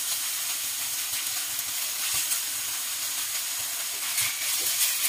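Sliced bitter gourd sizzling steadily in a hot stainless-steel wok as it is stir-fried with a spatula.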